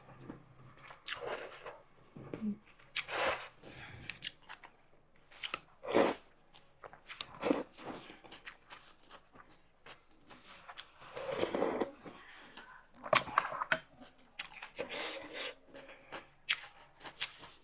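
Close-miked mouth sounds of a person eating: irregular chewing, smacking and biting, with a longer mouthful noise about eleven seconds in.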